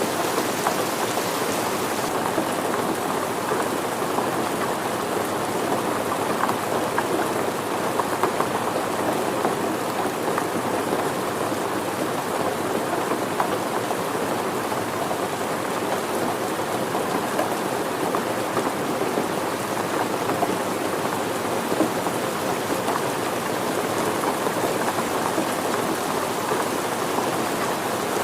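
Steady rain falling on a surface, a dense patter of drops that keeps an even level throughout.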